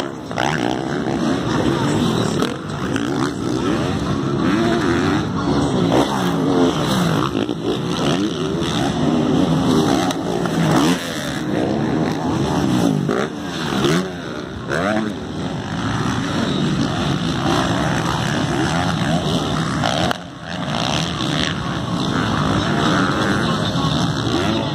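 Several motocross bikes racing together, their engines revving up and falling off again and again through gear changes and throttle blips, with the pitch of different bikes overlapping.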